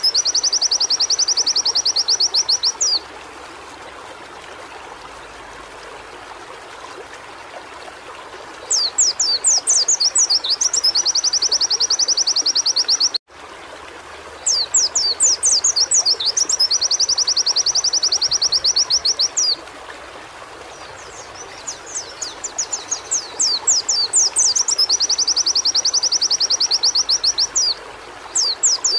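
Pleci (white-eye) singing in repeated bouts: each one a run of sharp, quick chirps leading into a fast, even high trill lasting a few seconds. This is the canary-like 'nembak' song. There are four bouts, with a steady rushing background between them and a brief dropout about 13 seconds in.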